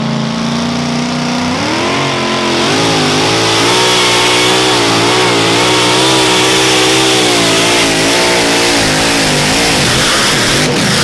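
Super modified two-wheel-drive pulling truck's engine under full throttle on a pull. It runs steadily, then revs up sharply about two seconds in and holds high with its pitch wavering up and down, before dropping off near the end.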